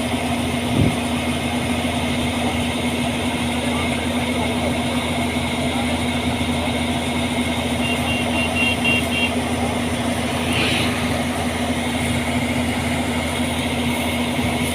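Combine harvester running steadily: a constant loud engine and threshing-machinery drone with a steady low hum.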